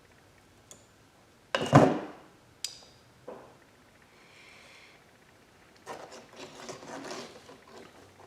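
Hand tools and small metal parts being handled on a workbench during wiring work: a loud knock about a second and a half in, a few sharp clicks, then a stretch of rummaging and rattling near the end.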